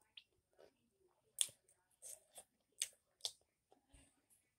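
A person chewing food, with a few sharp wet mouth clicks and lip smacks about half a second apart.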